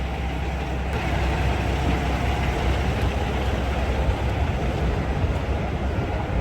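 Heavy vehicle engine idling steadily, a constant low hum with no change in speed.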